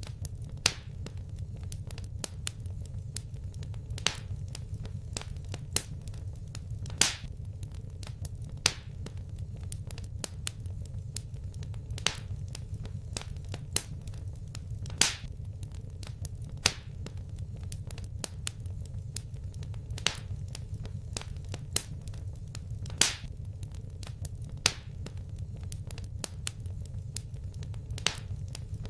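Wood fire crackling in a fireplace: a steady low rumble of burning under sharp snaps and pops, a louder pop every second or two with fainter crackles between.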